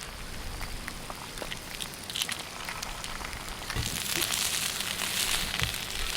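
Food frying in a pan over a campfire: a steady sizzle with small crackles, growing louder about four seconds in.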